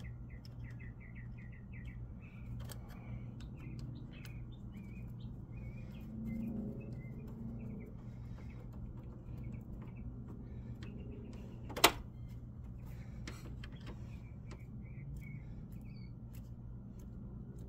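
Small birds chirping over and over, on top of a steady low hum, with one sharp click about twelve seconds in.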